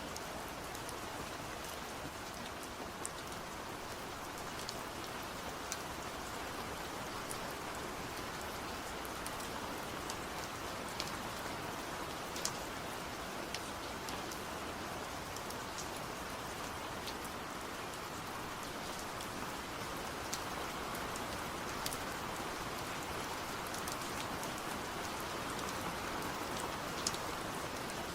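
Steady rain falling, with single drops ticking sharply every second or so over the even hiss.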